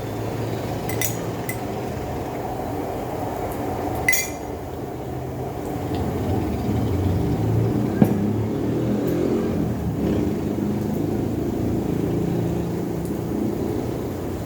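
A few sharp clinks of tableware on a steady low background rumble; the loudest clink, just after four seconds in, rings briefly.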